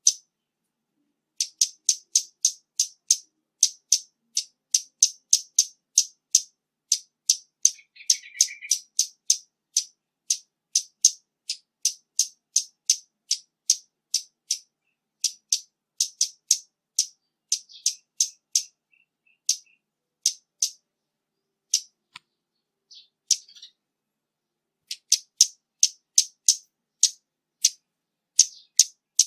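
Scarlet-backed flowerpecker giving a long series of sharp, high-pitched ticking call notes, just under two a second, with background noise filtered out. The calls break off for a few seconds about two-thirds of the way through, then resume.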